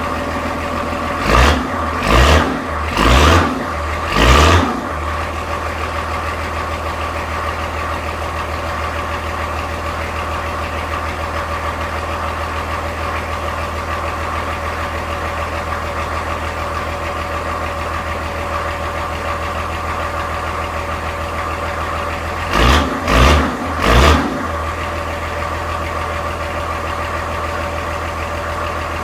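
Volvo TD40 turbo diesel in a 1966 Dodge D300 tow truck idling steadily shortly after a cold start near freezing, an engine that is short a couple of working glow plugs. Four brief louder bursts come a second or so in, and three more about 23 seconds in.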